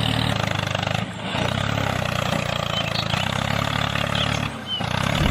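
Tractor engine running steadily at a low chug, dipping briefly about a second in and again near the end, with faint bird chirps above it.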